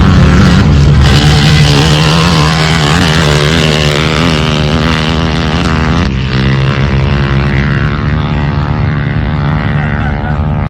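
Kawasaki 450 dirt bike's single-cylinder four-stroke engine running steadily loud, its note wavering up and down.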